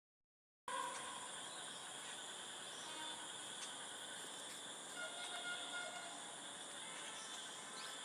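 Outdoor ambience that starts abruptly under a second in: a steady, high insect drone, with a few faint, short bird chirps.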